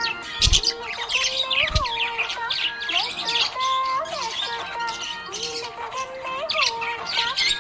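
Budgerigar chirping and warbling rapidly and continuously over background music with held melodic notes. There are two brief low thumps, about half a second and just under two seconds in.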